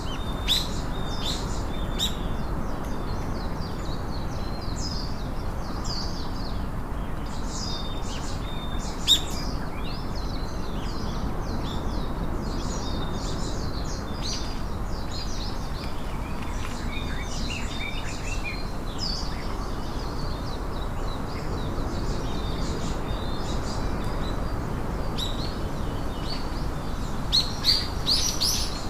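Several small birds chirping and twittering in quick, scattered calls, with a few louder chirps about nine seconds in and near the end. Underneath runs a steady low background noise.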